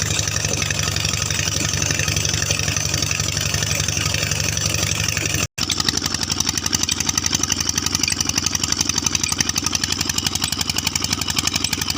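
Petter 20 HP diesel engine running steadily with an even, rapid beat. A split-second dropout about halfway through, after which the beats are sharper.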